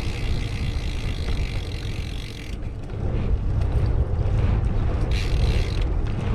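Wind rumbling over an action camera's microphone on a moving bicycle, with a hiss from the ride that comes and goes.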